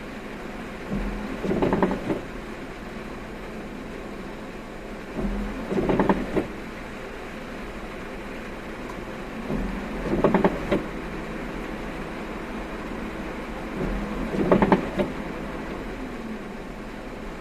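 A car's windshield wipers on the intermittent setting, making one sweep about every four seconds (four times), over the steady hum of the car driving in typhoon rain.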